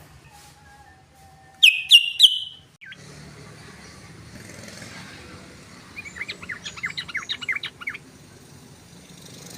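Yellow-vented bulbul (trucukan) calling: three loud, sharp notes sliding downward about two seconds in, then a fast rattling run of short notes from about six to eight seconds in. That run is the rapid repeated 'ropel' call.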